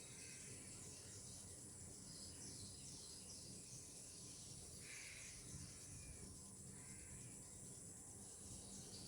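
Faint natural outdoor ambience: a steady high-pitched insect drone, with a few short bird calls about halfway through.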